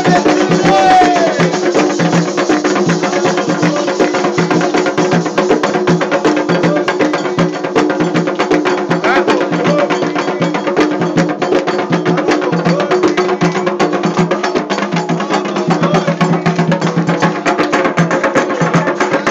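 Candomblé ritual music: a dense, fast, steady rhythm of drum and bell or wood-block strokes, with steady held tones underneath.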